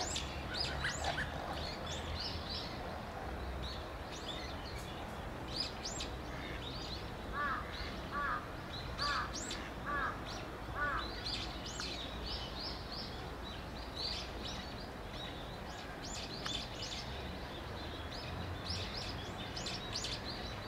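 Small birds chirping off and on with short high calls. In the middle comes a run of five lower calls, about one a second, over a steady low background rumble.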